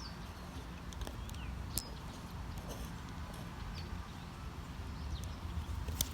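Open-air park ambience: a steady low rumble with scattered sharp clicks and a few short, high chirps.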